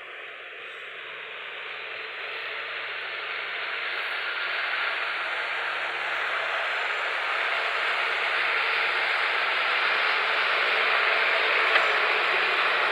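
Massey Ferguson 260 tractor's diesel engine working under load as it hauls two sand-loaded trolleys, with a dense mechanical running noise that grows steadily louder.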